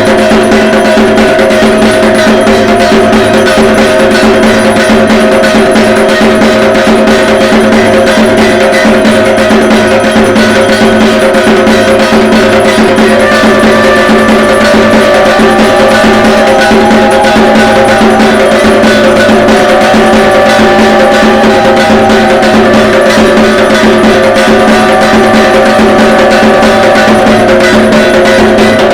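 Dhak drums beaten with sticks in a fast, dense, unbroken rhythm, over steady held ringing tones. A few short melodic phrases come in over the drumming about halfway through.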